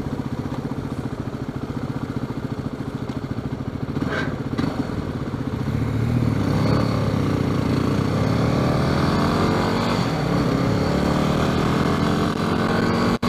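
Yamaha WR250R's single-cylinder four-stroke engine idling with a steady pulse. About six seconds in it gets louder and its pitch climbs and falls as the bike pulls away and accelerates.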